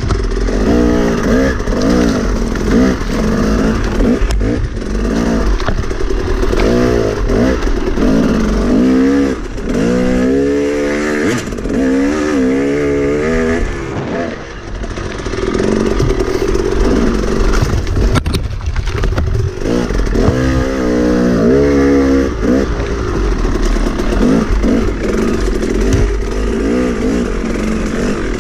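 Enduro dirt bike engine on the throttle, revving up and dropping back over and over, its pitch rising and falling every second or two over a steady low rumble.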